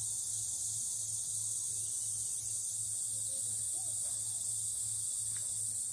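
Steady, unbroken high-pitched insect chorus with a faint low pulsing hum beneath it.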